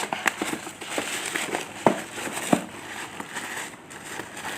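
Parcel packaging handled and opened by hand: irregular crinkling and crackling with sharp snaps, a few of them louder, about two seconds in and again near the middle.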